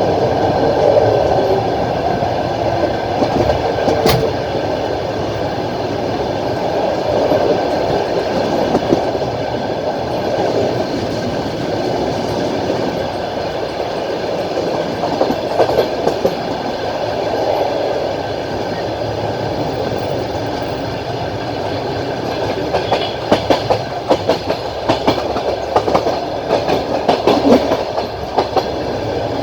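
Passenger train on the move, heard from inside a carriage: a steady rumble of wheels on the rails, with a sharp click about four seconds in and a quick run of wheel clacks over rail joints near the end.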